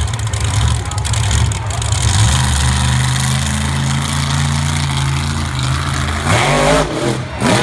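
Monster truck engine running loudly with a steady low note under a rush of noise. Near the end the pitch swings up and down.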